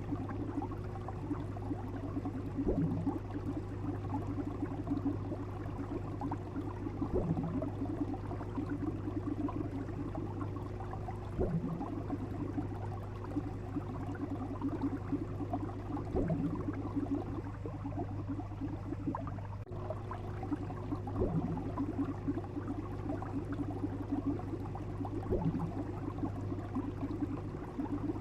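Looped underwater or aquarium-style sound effect: a steady low hum under a continuous bubbling, crackling texture, with a short rising sweep about every four to five seconds. It cuts out for an instant about two-thirds of the way through.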